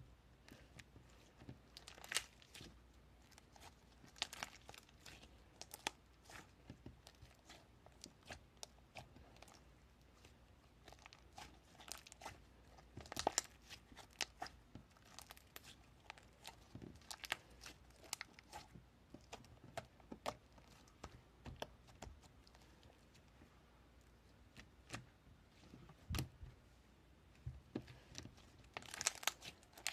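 Irregular crinkling and crackling sounds from something handled close to the microphone, with louder clusters about halfway through and near the end.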